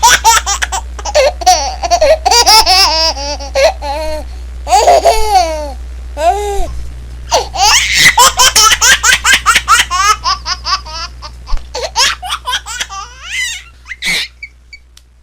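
Baby laughing in long fits of rapid, high-pitched chuckles broken by short gaps for breath, with a last burst shortly before the end.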